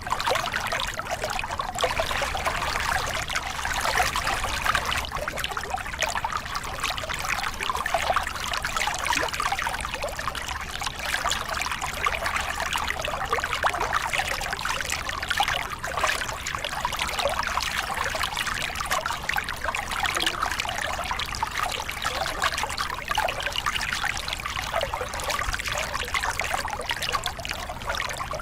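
Small river cascade: water pouring and splashing over rocks in a steady, continuous rush with a bright, bubbling texture.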